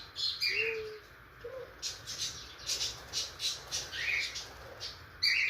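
Budgerigar chick, about two weeks old, giving short raspy begging squawks while being hand-fed, with a fast run of about five calls a second in the middle.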